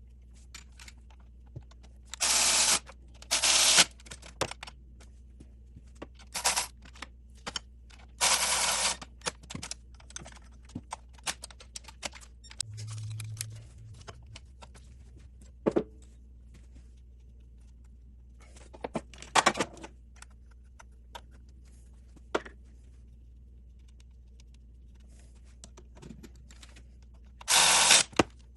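Socket ratchet clicking in short bursts of about half a second, half a dozen times, as bolts on the engine are turned, with scattered clicks and clinks of tools and parts in between.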